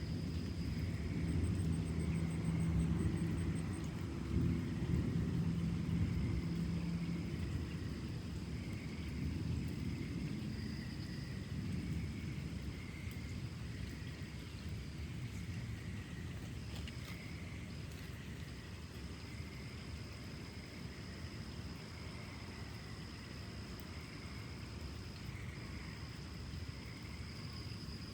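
A low rumble that is loudest over the first several seconds and then slowly fades. Under it run a steady high-pitched drone and a soft chirp repeating about once a second.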